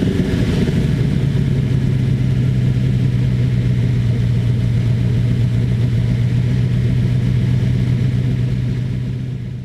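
Ford 289 V8 engine running on a dyno. Its speed settles in the first moment and then holds steady. The sound fades out near the end.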